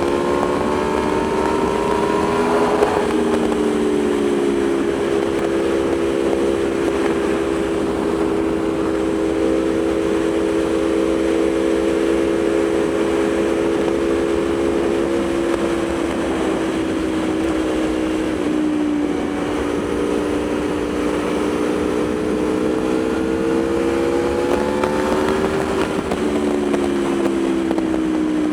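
Aprilia Tuono V4's V4 engine under way. It pulls up in pitch and drops sharply as it shifts up about three seconds in, then cruises at a steady pitch. It climbs again and shifts up once more near the end, with wind noise under it.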